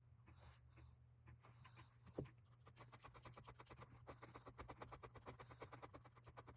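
Felting needle stabbing wool roving into a foam block, a faint quick run of pokes several times a second that gets denser after the first couple of seconds, with one sharper knock about two seconds in. A steady low hum lies underneath.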